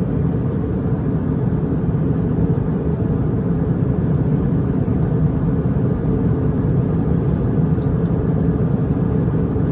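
Steady in-flight cabin noise of an Airbus A320 airliner during its descent: an even, low hum of the engines and the air rushing past the fuselage.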